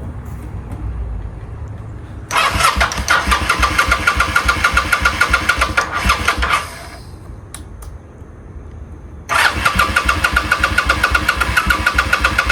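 Electric starter cranking a 2002 Kawasaki VN800's V-twin engine twice, each try about four seconds of fast, even chugging, stopping without the engine firing. The bike is being cranked on a jump from another battery and does not start.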